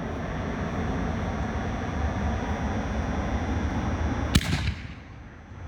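6-inch canister firework shell going off: one sharp bang about four seconds in, after a steady low rushing noise.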